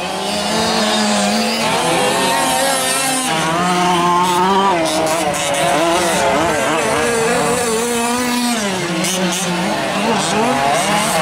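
Several 1/5-scale RC racing trucks' small two-stroke gasoline engines revving up and down together, their pitches wavering and overlapping as they race around the track.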